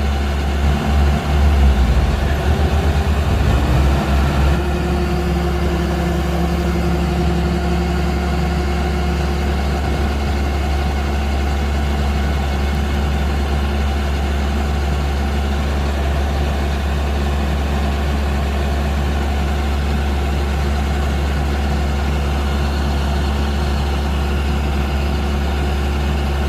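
Kubota DC-105X combine harvester's diesel engine running, rising in pitch and level over the first few seconds, then holding a steady drone.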